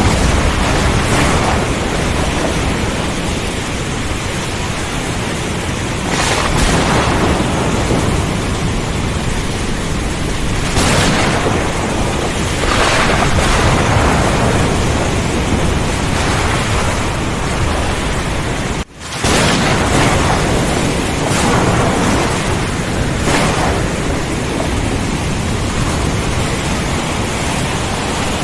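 Heavy rain in a thunderstorm, a dense steady hiss over a low rumble of thunder, with several brief louder swells. About two-thirds of the way through, the sound cuts out for an instant and comes straight back.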